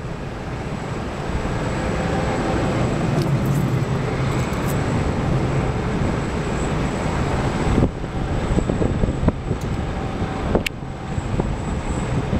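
Jet engines of the Boeing 747 Shuttle Carrier Aircraft carrying Space Shuttle Endeavour on a low flyby: a loud, steady rumble that builds over the first couple of seconds and holds, with a short drop a bit past halfway.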